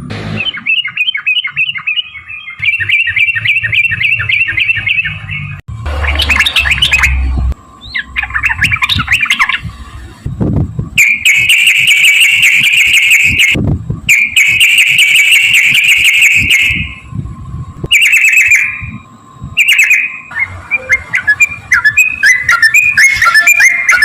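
Yellow-vented bulbul (trucukan) singing loud, rapid chattering runs of song, the long 'ropel' phrases, repeated in bursts with the longest runs in the middle. A low rumble sits under the song for a few seconds early on.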